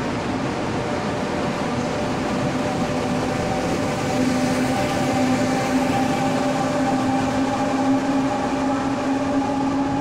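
Taiwan Railway Tze-Chiang express train pulling out and running past: a steady rumble of carriages on the track, with a hum whose pitch rises slowly as the train gathers speed. It grows a little louder about four seconds in.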